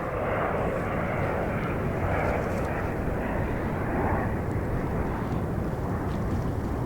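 Jet airliner on landing approach passing by, its engines giving a steady noise that swells at the start and holds.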